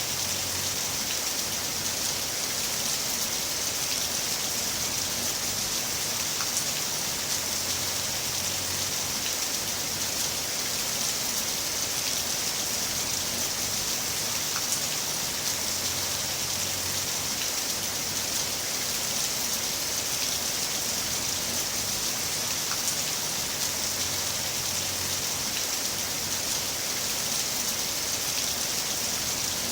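Heavy rain falling steadily: an even, unbroken hiss with now and then a single drop tapping.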